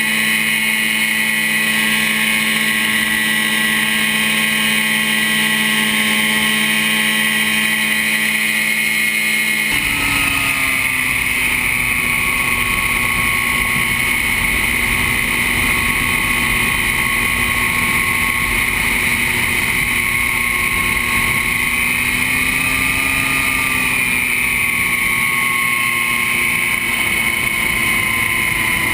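Quicksilver MX Sport ultralight's engine and propeller running with a steady drone. About ten seconds in, wind rush comes in suddenly under it, and the engine pitch wavers slightly from then on.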